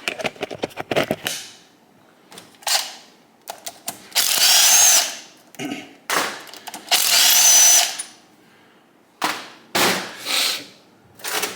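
Power drill backing bolts out of a motorcycle engine's cover. It runs in several short spurts and two longer runs of about a second in the middle, each with a high whine. A clicking rattle comes at the start.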